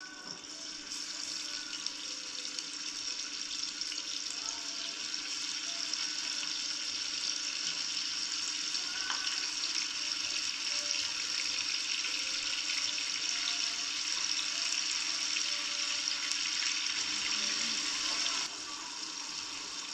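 Prawns sizzling as they fry in hot oil in a nonstick pan: a steady, bright hiss that grows slightly louder, then drops to a lower level near the end.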